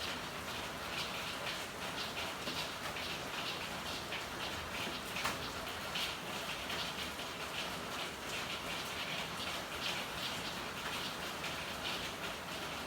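Steady rain falling, with many individual drops pattering close by and one sharper drop about five seconds in.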